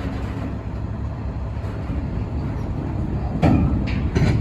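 Steady low rumble of a freight train, with two heavy knocks near the end.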